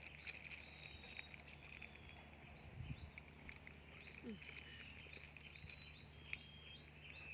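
Faint birds singing: a series of short, thin, high whistled notes, each falling in pitch, over a steady outdoor hum, with a few light clicks.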